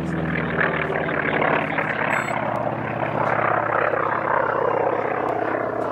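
Propeller airplane engine droning steadily as the plane flies by, with a rough, noisy character over a low steady tone.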